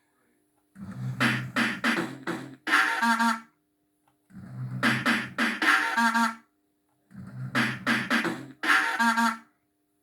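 JPM System 5 fruit machine sound board playing the same short sampled clip three times over, each about two and a half seconds of voice-like sound over a beat, with a brief silence between repeats. It sounds a bit rough through a poor speaker connection.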